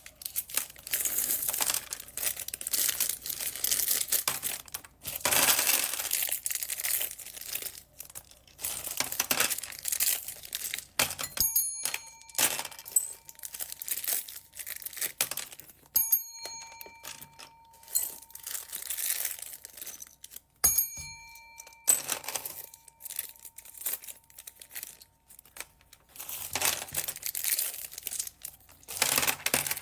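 Plastic packaging bags crinkling and rustling in quick, uneven handfuls as they are handled and opened. Three ringing chime tones sound over the rustling, starting about a third of the way in, around the middle, and about two-thirds of the way in.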